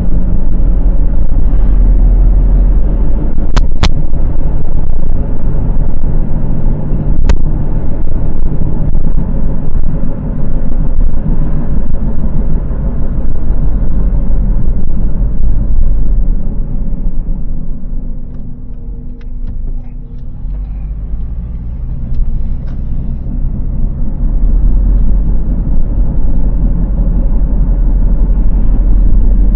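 A 2002 Honda CR-V driving, heard from inside the cabin: a loud, low, steady rumbling drone that eases for a few seconds past the middle. The owner takes it for a worn front wheel bearing. A few sharp clicks sound a few seconds in.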